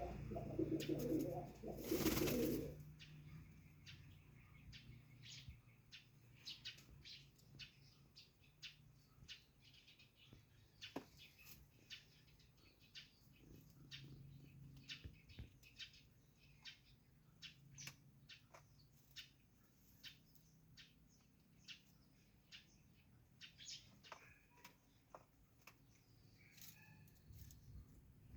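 Domestic pigeons cooing, with a short burst of wing-flapping about two seconds in. After that come many faint, short, irregular clicks and chirps.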